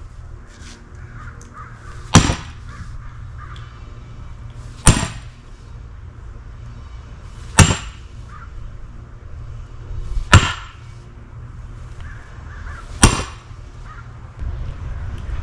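Sledgehammer striking a steel splitting wedge driven into an oak round: five sharp, ringing blows at an even pace, a little under three seconds apart.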